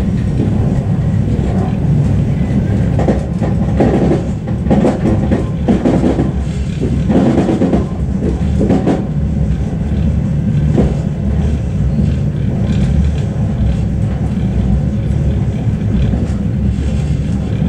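A suburban passenger train running along the track, heard from inside the carriage: a steady low rumble of wheels on rails, with a spell of irregular clattering and knocking from about three to nine seconds in.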